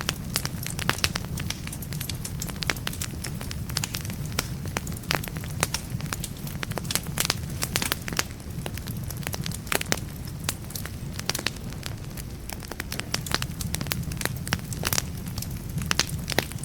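Wood fire burning in a fireplace: frequent, irregular sharp crackles and pops of burning logs over a steady low rumble of the flames.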